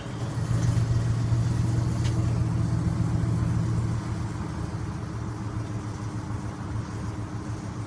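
Loud pickup-type truck engine idling with a steady low hum, dropping slightly in level about four seconds in.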